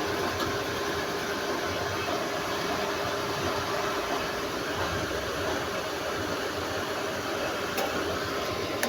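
Electric water pump running steadily, charging the pressure tank as the pressure builds.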